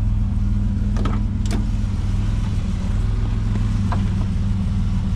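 1987 Buick Grand National's turbocharged 3.8-litre V6 idling steadily, with a few light clicks about a second in, half a second later, and again near four seconds.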